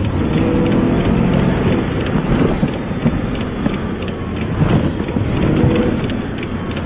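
Police patrol car engine running under load as the car drives off, over a steady low rumble, heard through the dashcam microphone.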